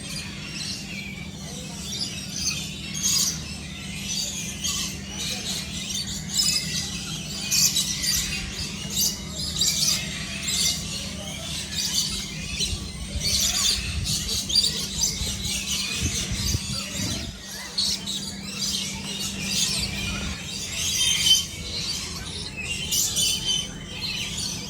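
Many birds chirping and squawking in a dense, continuous chorus of short high calls, over a steady low hum.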